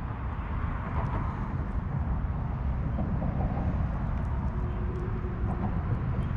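Steady outdoor background noise: a low rumble with a hiss above it and a few faint ticks.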